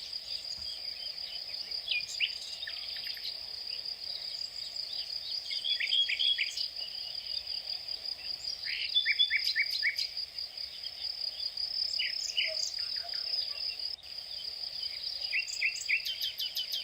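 A steady, high-pitched insect trill, like a chorus of crickets, with birds chirping over it in short runs of quick notes every few seconds.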